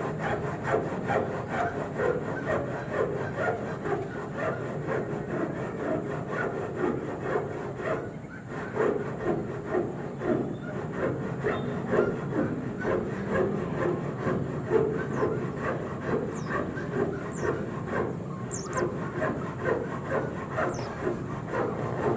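Hand saw cutting through wood in steady back-and-forth strokes, about two a second, with a short pause about eight seconds in.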